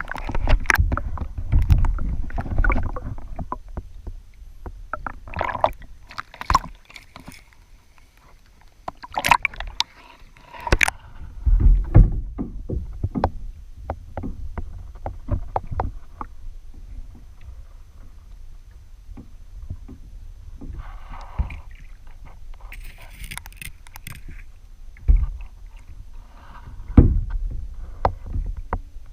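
Water sloshing and rushing around a kayak-mounted camera as the kayak is paddled, with irregular knocks and clicks scattered through. The loudest thumps come about twelve seconds in and again near the end.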